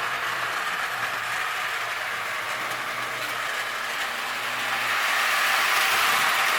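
Marx Wm. Crooks toy train running on three-rail O-27 tinplate track: a steady rattling whir of the electric motor and wheels on the rails over a low hum, growing louder about four and a half seconds in.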